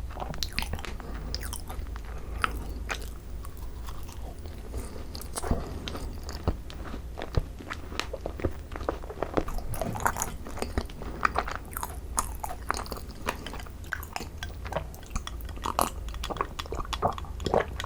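Close-miked chewing of a thick-cream Korean macaron (ttungcaron): many small crisp crackles of the shell with soft, sticky chewing throughout.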